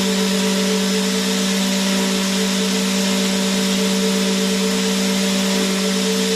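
Vacuum cleaner motor running continuously: a steady hum with an even rush of air above it, no change in pitch or level.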